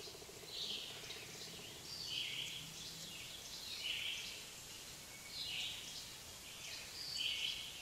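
Small birds chirping in the background: short, high chirps about once a second.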